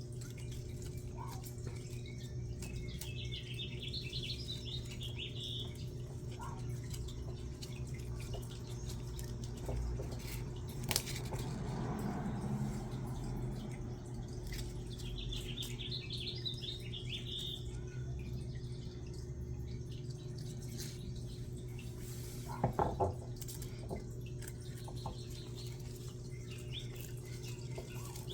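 A bird singing two short, high chirping phrases over a steady low hum, with a sharp click and a brief cluster of taps.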